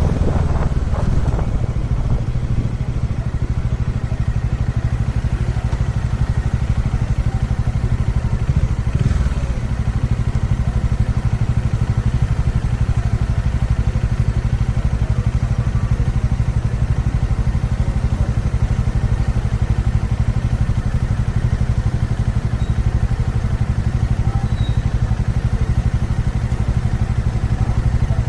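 Kawasaki Dominar 400 motorcycle's single-cylinder engine running at a steady speed, heard raw from the bike.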